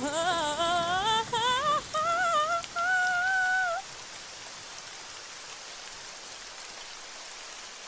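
A woman's voice sings an ornamented, wavering melismatic line of a Turkish folk song, rising and ending on a long held note with vibrato just under four seconds in. After the note a steady, even rain-like hiss goes on.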